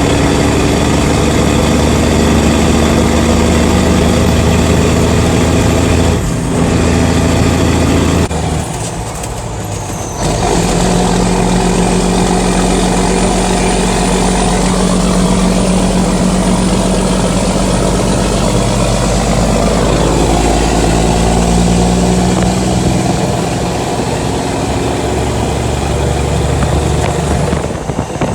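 1983 Mack R-model truck's diesel engine running through a 5-inch single straight stack while the truck is driven. The engine note falls away for about two seconds around eight seconds in, then comes back steady and strong, and shifts again about twenty seconds in.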